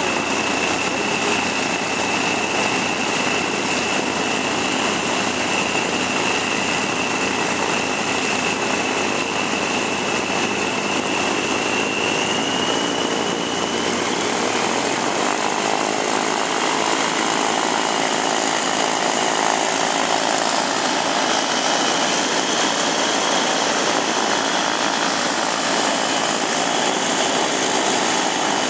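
Aircraft engines running steadily, with a high whine that steps up slightly in pitch about halfway through.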